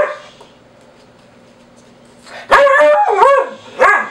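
Vizsla barking on a "speak" command: a bark trails off at the start, then after a pause of about two seconds come three barks in quick succession.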